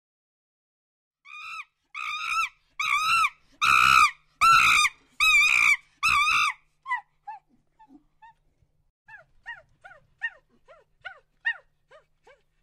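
A monkey calling: a run of about seven loud shrieks that each rise and fall in pitch, followed by quicker, fainter, falling chirps at about two a second.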